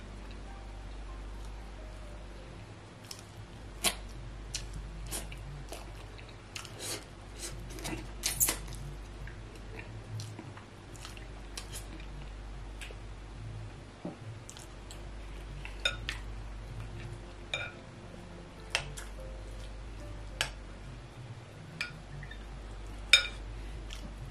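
Chewing and mouth noises of someone eating fish and yam pepper soup, with a metal spoon clicking and scraping against a glass bowl now and then. A steady low hum runs underneath.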